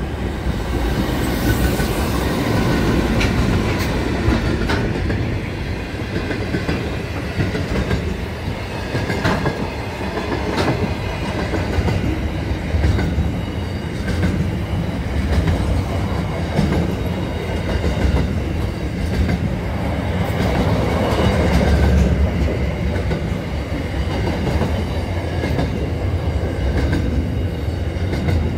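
A train passing close by: steady running noise of wheels on rail, strong in the low end, with scattered sharp clicks of the wheels over the track.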